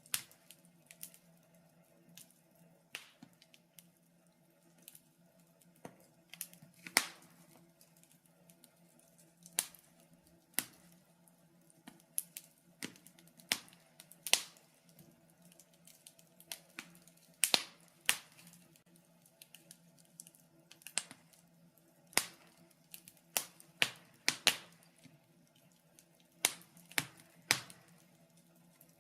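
Wood fire crackling in a fireplace: irregular sharp snaps and pops, a few noticeably louder than the rest, over a faint steady low hum.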